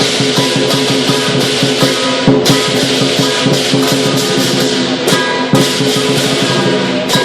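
Lion dance percussion band of drum, clashing cymbals and gong playing a loud, fast, steady beat, the cymbals and gong ringing on between strokes.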